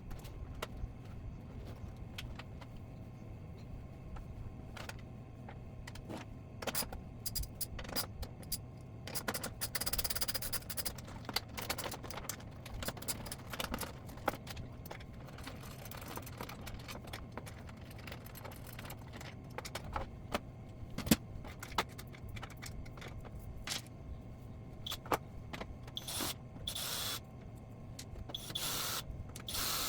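Handling noise: scattered sharp clicks, taps and short scrapes, as of parts and tools being handled during work on a flat-screen TV, over a steady low hum.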